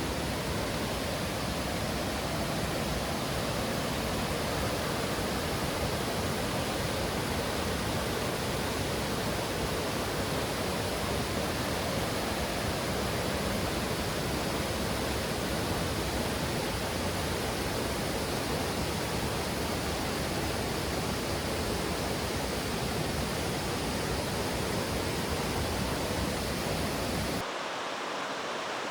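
Rushing water of a mountain stream, a steady full hiss. About a second before the end it drops suddenly to a thinner, quieter rush.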